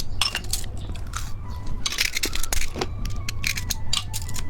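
Novelty candy in plastic packaging being handled: irregular crinkles, clicks and crackles.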